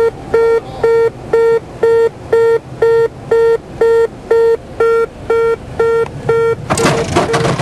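Electronic warning beeper sounding a steady single-pitched beep about twice a second. Near the end a loud rushing noise suddenly starts over it, and the beeping carries on beneath.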